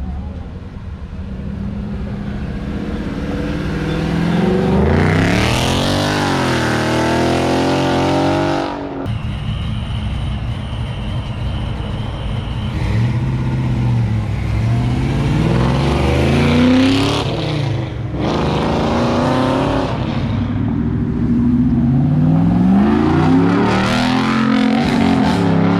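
Car engines revving and accelerating hard, the pitch climbing in several pulls through the gears. The engine note cuts off sharply about nine seconds in.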